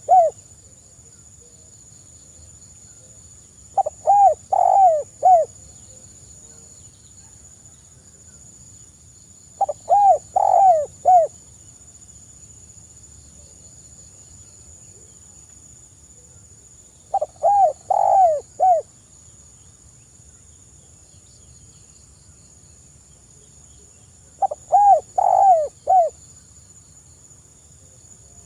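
Spotted dove (tekukur) cooing: a short phrase of four or five notes, repeated four times about six or seven seconds apart, over a faint steady high-pitched hiss.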